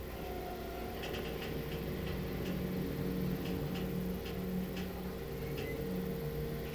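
Freight train hauled by an LDH diesel-hydraulic locomotive rolling slowly along the track: a steady low diesel hum, with light irregular ticking from the wheels on the rails through the middle.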